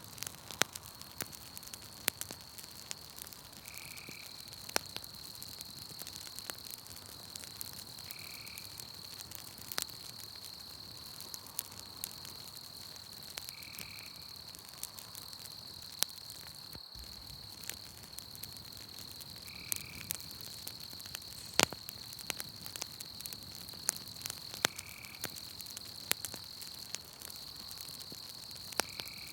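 Campfire crackling, with irregular sharp pops of burning wood, over a steady high trill of night insects. A short animal call repeats about every five seconds.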